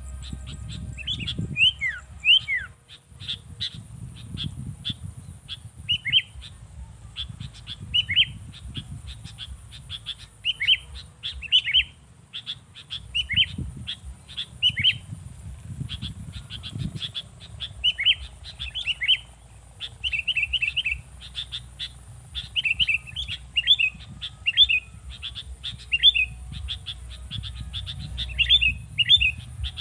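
A bird calling over and over: short, sharp chirps repeated every second or so, over a low rumble.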